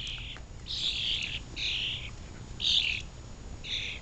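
Birds giving about five harsh, rasping calls in quick succession, each under a second long: scolding calls from birds following and mobbing an animal.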